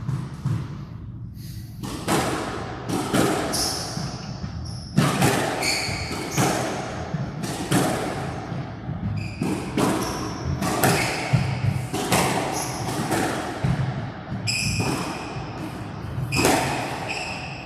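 Squash rally: the ball cracking off rackets and walls about once every second or so, with high squeaks of court shoes on the floor between strokes.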